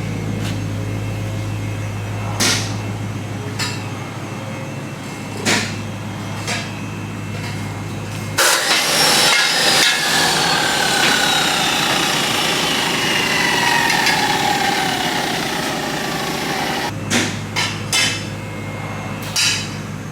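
Exhaust work on the car: several sharp metal knocks, like hammer blows on the exhaust. Then a power tool runs for about eight seconds, its whine slowly falling in pitch, before the knocking resumes near the end.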